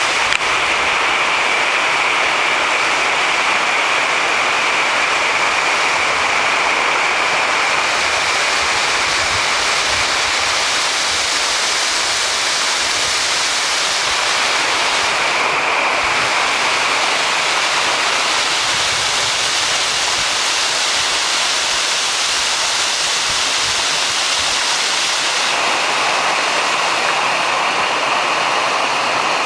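Waterfall: the steady, loud rush of falling water splashing into its pool.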